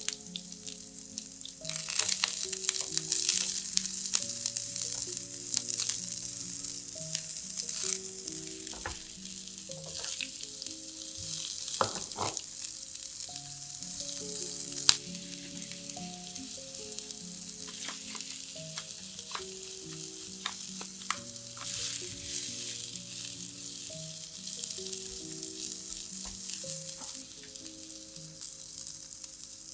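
Sliced onions and red bell pepper strips sizzling in hot olive oil in a nonstick frying pan, with light clicks of a silicone spatula stirring them. The sizzle jumps louder about two seconds in as the onions hit the oil. Quiet background music plays underneath.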